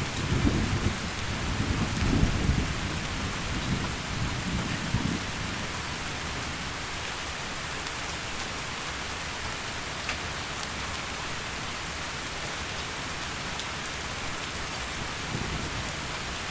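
Heavy rain falling steadily, with a low rumble of thunder in the first few seconds that dies away.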